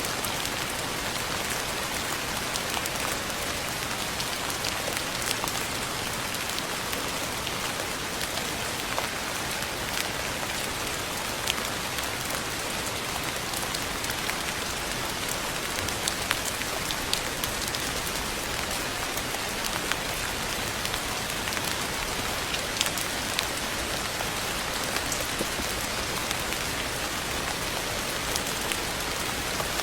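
Steady rain falling on a surface, an even wash of hiss dotted with many sharp individual drop ticks.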